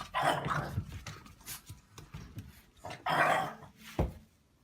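A dog barking several times, with short pauses between the barks.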